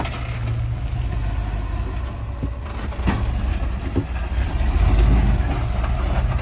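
Off-road truck's engine running at low revs as it crawls over rocks, pulling harder about five seconds in, with a few short knocks from the rig against the rock.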